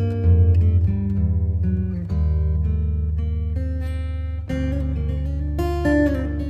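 Instrumental music: acoustic guitar plucking notes over sustained low bass notes, with the bass changing about every two seconds.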